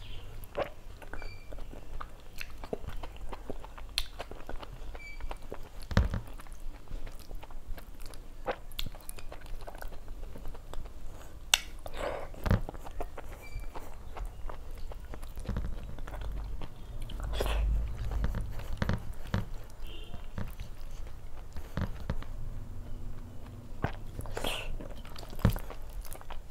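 Close-miked chewing and wet mouth sounds of someone eating rice and fried fish by hand, with many short smacks and clicks scattered throughout, and fingers squishing and mixing soft rice on a paper plate.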